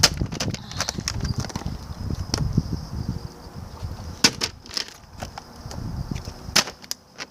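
A plastic water bottle partly filled with water being tossed in bottle-flip attempts and knocking onto the ground: a handful of sharp, separate knocks, two of them close together about halfway through. Low rumble from wind on the microphone in the first second or two.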